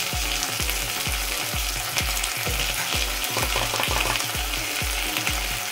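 Onions, ginger-garlic and turmeric sizzling in hot oil in a kadai as they are stirred. Under it runs a steady low beat of background music, about three thumps a second.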